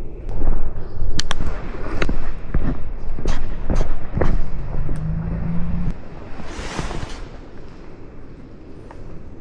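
A handheld mirrorless camera being handled, giving a string of irregular shutter-like clicks and knocks over a heavy low rumble for about six seconds. A short steady hum sounds just before the rumble stops, and a brief hiss follows about a second later.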